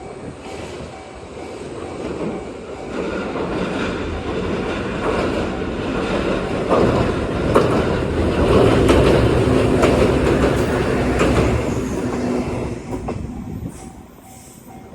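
Kakogawa Line electric train passing over a level crossing: its running noise swells to a peak about eight to ten seconds in, with wheels clicking over the rail joints, then fades away. The crossing's warning bell keeps ringing underneath.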